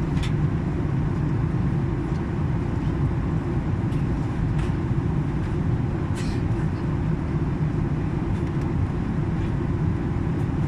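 Steady low rumble of a passenger airliner's cabin in flight: the engines and the air rushing past the fuselage, holding an even level throughout, with a few faint ticks.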